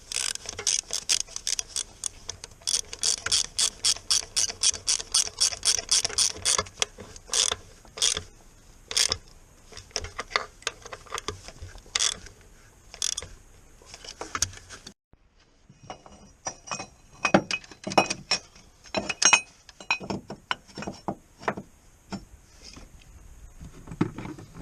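Hand ratchet clicking: a fast run of even strokes at about five clicks a second, then slower, scattered strokes. After a brief break, more clusters of ratcheting.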